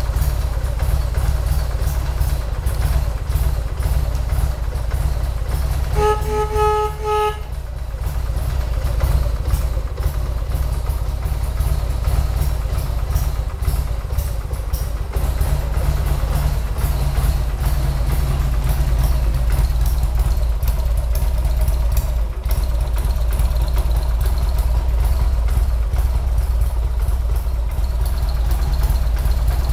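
1992 Harley-Davidson XLH1200 Sportster's 1200 cc V-twin idling steadily through its stock mufflers. About six seconds in, a pitched beep sounds for about a second and a half over the engine.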